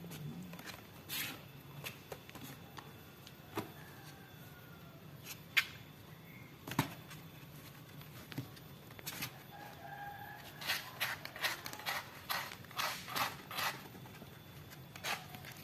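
Faint drawn-out animal calls, one about four seconds in and another about ten seconds in, among scattered short clicks and taps that cluster near the end.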